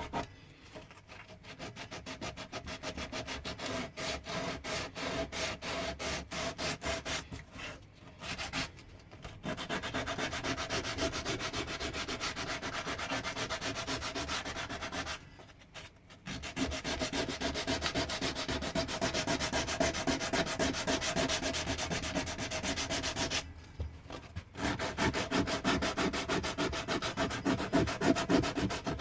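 Pine wood being abraded by hand with rapid, even back-and-forth strokes, as when a carving is sanded or rasped. The strokes come in long runs broken by three short pauses.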